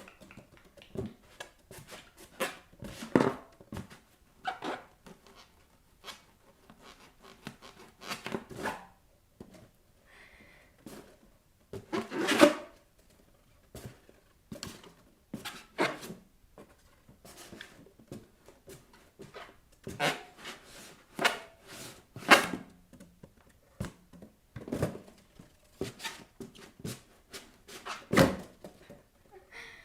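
Bare feet pressing, rubbing and tapping on inflated rubber balloons: irregular squeaks and soft thumps, some louder than others.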